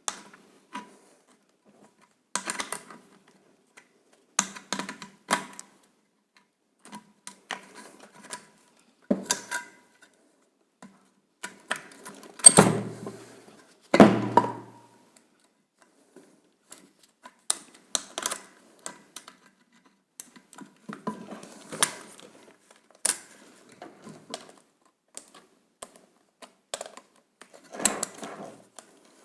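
Irregular clicks, taps and knocks of small metal parts and wire being handled while the leads of an old washing-machine motor are wired up, with two louder knocks about twelve and fourteen seconds in.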